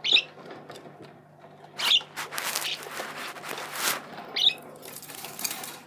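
Young budgerigars chirping in their cage: a few short, high calls, with a stretch of scratchy, raspy noise in between.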